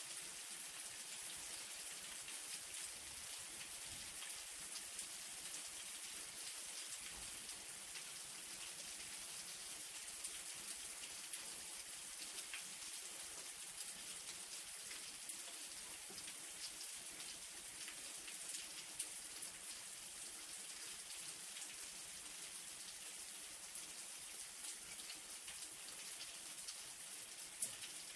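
Light rain falling steadily: an even soft hiss with scattered individual drops ticking.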